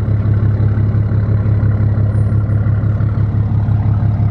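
Dodge Ram 2500 pickup engine running at a steady idle while the truck backs up slowly, a low even throb.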